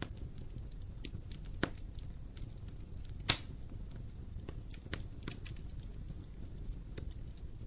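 Burning wood in an open fireplace crackling: scattered small pops and snaps over a low steady rumble of the flames, with two sharper pops, the louder about three seconds in.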